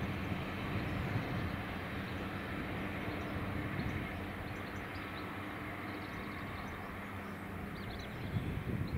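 Class 142 Pacer diesel railbus running away along the track. Its engine hum and low rumble are steady, and the hum drops away about two-thirds of the way through. A few faint bird chirps come near the end.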